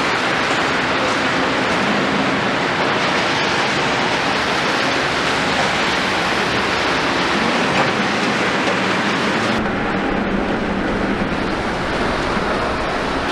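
Volvo EC 700 demolition excavator's diesel engine running under a dense, steady hiss of rain. The highest part of the hiss drops away about ten seconds in.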